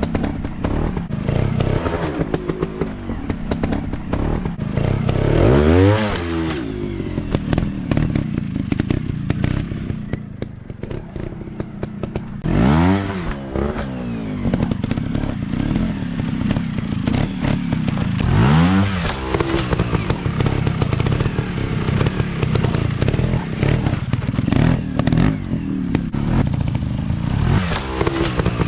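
Dirt bike engine running, its throttle opened in bursts about four times, the pitch rising then falling each time, over a dense clatter of short ticks.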